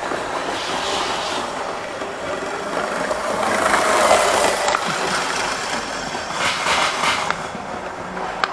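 Model train running along the layout's track: the wheels roll and the motor runs in a steady rumble that swells louder around the middle as the train passes close.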